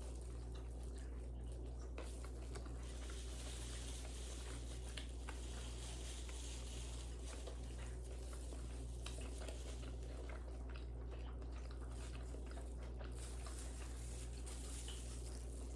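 Faint close-miked eating sounds: scattered small bites and chewing clicks over a steady low electrical hum.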